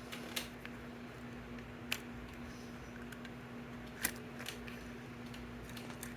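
A few scattered small clicks and taps from hands working on parts, over a steady low hum.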